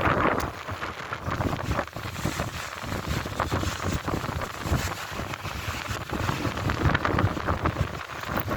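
Strong wind buffeting the phone's microphone in gusts: an uneven low rumble that swells and drops.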